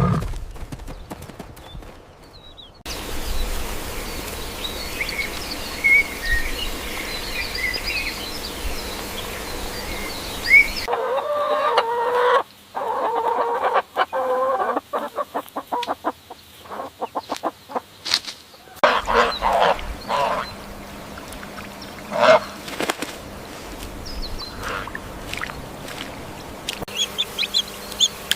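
Domestic fowl calling in a string of short clips that change abruptly. Chirps come first, then a run of clucking calls from about eleven seconds in, then scattered shorter calls.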